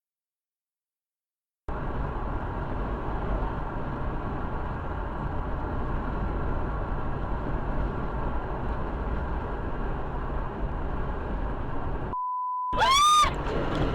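Steady noise of a car driving, heard from inside, that starts about two seconds in after dead silence. About twelve seconds in it gives way to a steady beep tone, then a short loud sound that rises and falls in pitch.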